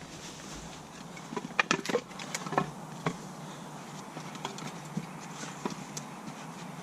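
Dry sticks of firewood knocking and snapping as they are handled: a quick cluster of sharp clacks a second or two in, then a few single knocks.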